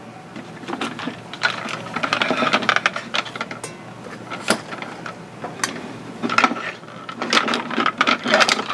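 Plastic toy parts being handled and worked apart by hand: irregular clicks and knocks with stretches of scraping and rattling.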